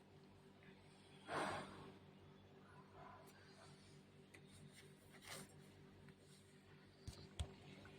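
Near silence: faint room tone with a low steady hum, a brief soft rustle about one and a half seconds in and a small click near the end.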